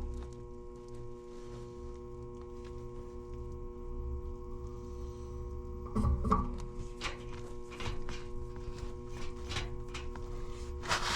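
Air handler blower motor humming steadily as it tries to come on, a sign of the failing blower motor. Scattered clicks and knocks come in from about six seconds in.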